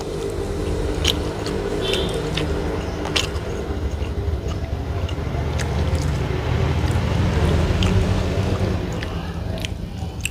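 A person eating rice with his hands, close to the microphone: chewing and lip smacks come as short, sharp clicks at irregular intervals over a steady low rumble.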